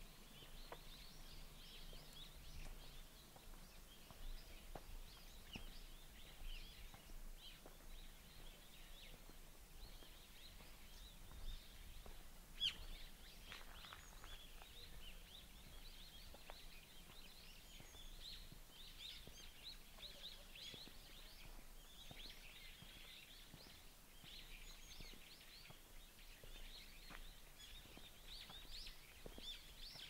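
Many small birds chirping and twittering at once, faint and continuous, with one louder sharp note about halfway through.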